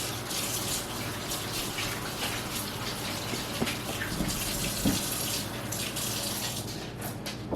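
Kitchen sink tap running while hands are washed under it, a steady splashing hiss with a few small knocks, the flow thinning out near the end.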